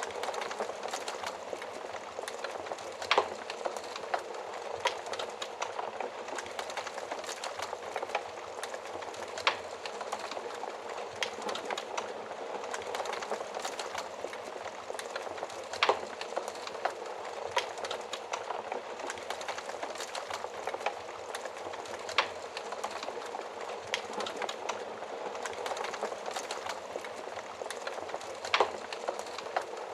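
Wood fire burning with a steady hiss of flames and many small crackles, and a louder pop about every six seconds.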